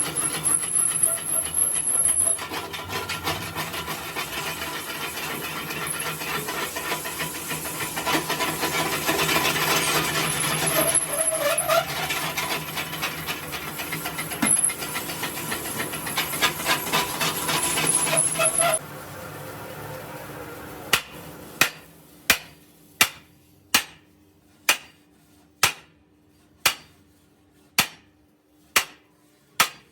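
Workshop noise of rubbing or grinding with a steady whine, which stops about two-thirds through. Then comes a run of evenly spaced sharp hammer-like strikes, a little under two a second, each with a brief ring.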